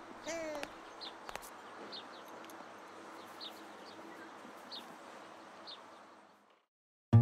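Birds chirping faintly: short, high, falling chirps every second or so over a soft hiss, with a brief lower gliding call near the start. The whole bed fades out about six and a half seconds in.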